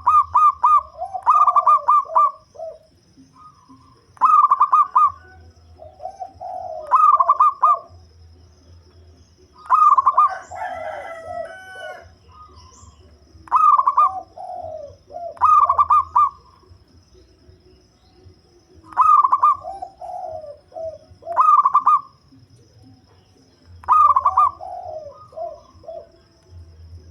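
Zebra dove (local perkutut) cooing in its repeated song. About ten phrases come every two to three seconds, each a quick run of clipped notes dropping into lower rolling coos. A faint steady high tone runs underneath.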